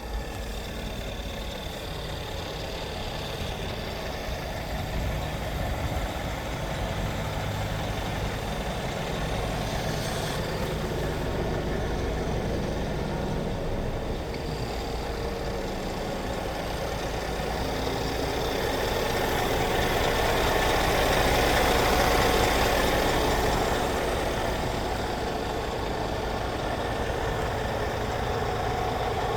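Scania R480 truck's diesel engine idling steadily, growing louder for a few seconds about two-thirds of the way through.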